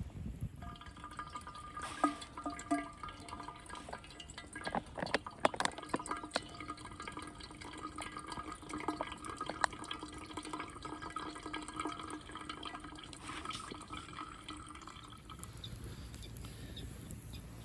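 Water bubbling and dripping in a metal camp mess tin over the fire, with scattered light clicks and a faint steady ringing that stops about fifteen seconds in.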